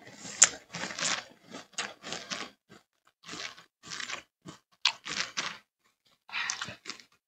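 Cocoa Pebbles cereal being chewed close to a headset mic: crunchy bites in quick runs with short pauses between mouthfuls, and a sharp click about half a second in.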